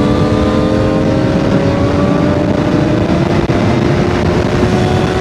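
Sport motorcycle engine running with its exhaust removed, pulling steadily, its pitch climbing slowly as the bike gains speed, under wind rush on the helmet microphone.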